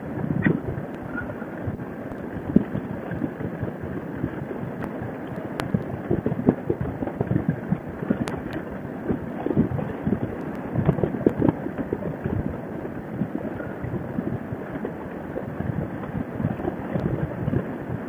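Wind buffeting a motorcycle rider's helmet microphone at road speed: a rough, uneven rush that swells and gusts all through.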